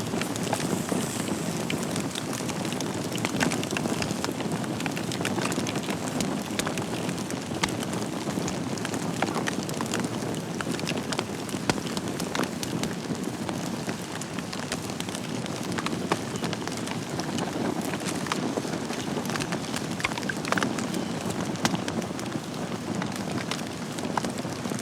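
Wood fire burning in a fireplace: a steady rushing hiss of flames with frequent sharp crackles and pops at irregular times.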